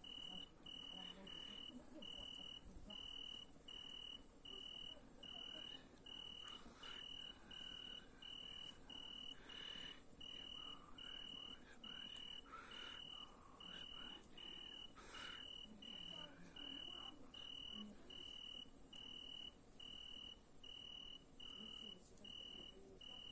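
Crickets chirping: an even, regular chirp a little more than once a second over a continuous high, thin trill, faint.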